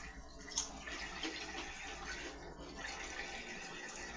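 Steady hiss of running water, with a couple of faint clicks about half a second in.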